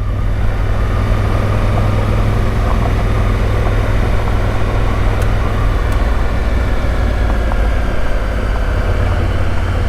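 Honda Africa Twin's parallel-twin engine running at a steady cruise while riding, a constant low rumble with rushing wind and road noise over it.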